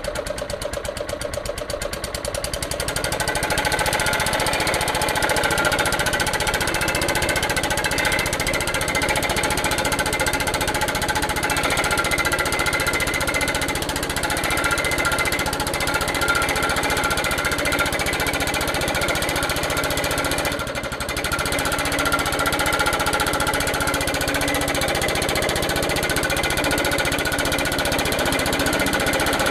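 Suffolk Punch 43S petrol cylinder lawnmower running and cutting grass, its small engine firing in a fast, even rhythm. It gets louder about three seconds in, with one brief dip later on.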